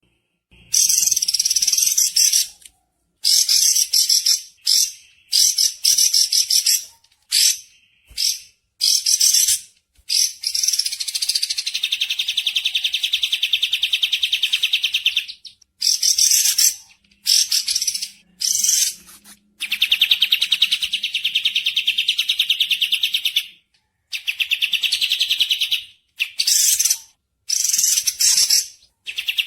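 Recorded bird song: fast, high, rattling trills repeated in bursts of one to four seconds, each starting and stopping abruptly with short silences between.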